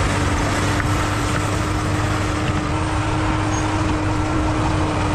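Bulldozer's diesel engine running steadily, with a steady hum held over the engine noise.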